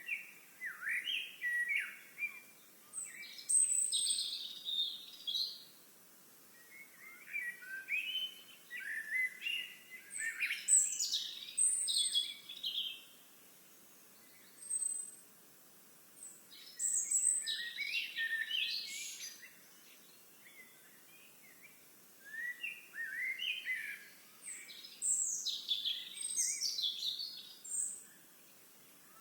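Songbird song: long, rapid phrases of many high, sliding notes, sung in bouts of several seconds with short pauses between.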